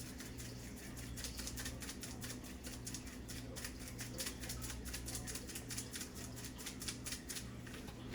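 Seasoning shaken from a shaker container onto raw chicken: a continuous run of rapid fine rattling ticks that stops near the end, over a steady low hum.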